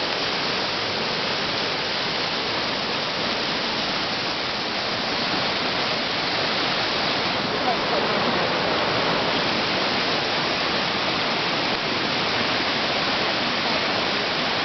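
A rain-swollen, fast-flowing river rushing steadily, a continuous even wash of water with no break.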